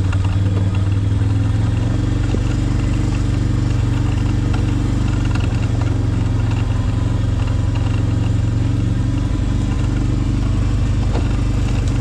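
A motor engine running steadily at one even pitch, with a low, constant hum.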